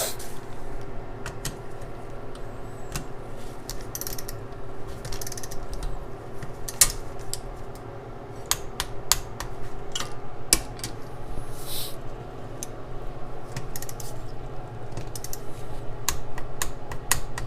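Socket wrench ratcheting as nuts are run down and torqued to 13 foot-pounds: irregular sharp clicks of the pawl, with a steady hum underneath.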